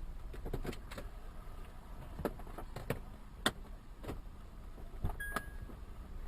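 Low rumble of a car on the road, heard inside the car, with scattered irregular clicks and knocks and a short beep about five seconds in.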